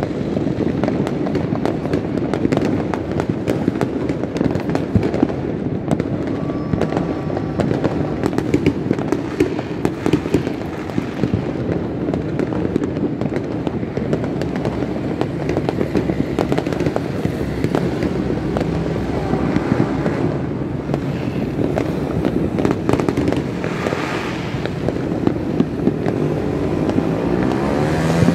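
Many fireworks and firecrackers going off at once in a dense, unbroken crackle of pops and bangs, with louder sharp bangs scattered through it.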